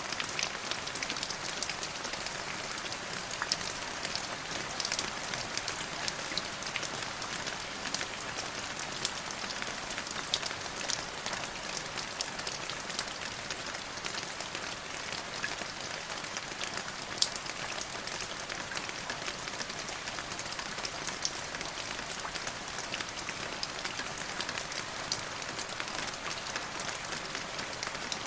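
Steady rain falling on a surface, an even hiss dotted with many sharp drop ticks throughout.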